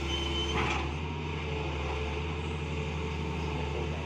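Excavator's diesel engine running steadily with a low hum, with a brief high tone in the first second and a short knock just under a second in.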